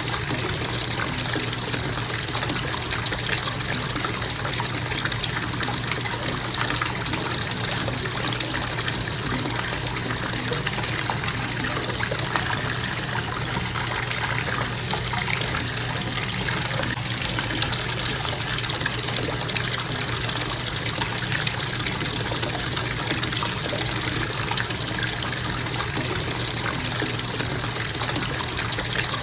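Bathtub faucet running in a steady, constant stream, water splashing into the tub with an even rushing sound and a faint low hum underneath.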